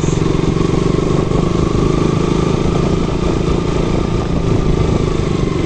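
KTM RC 200's single-cylinder engine running steadily as the motorcycle is ridden.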